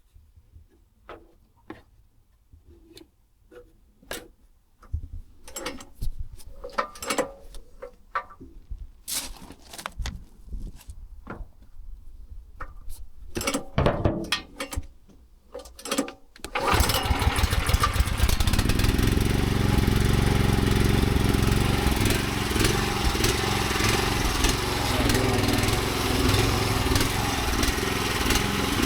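Scattered clicks and knocks from equipment being handled, then about two-thirds of the way in the pressure washer's engine starts and runs steadily. This is the machine being restarted after its leaking high-pressure hose fitting was re-sealed with PTFE tape.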